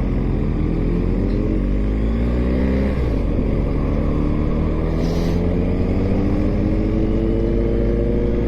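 BMW GS motorcycle engine pulling along at road speed, heard from on the bike. Its pitch climbs for about three seconds, drops with a gear change, then rises slowly again as the bike accelerates.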